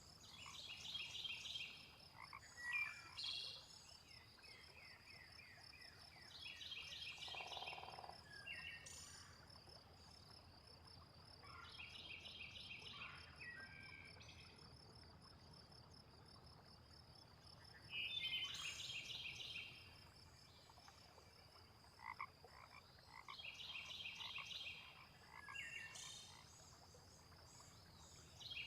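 Frogs croaking in bouts of rapid pulsed calls that come round every five or six seconds, over a steady high insect trill.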